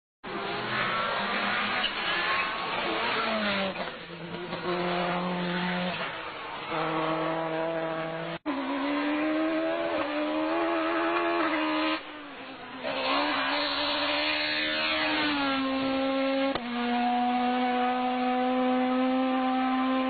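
Renault Mégane rally car engine at high revs, its pitch climbing and falling through gear changes and braking across several spliced passes, with a brief dropout about eight seconds in. Near the end the engine holds one steady pitch.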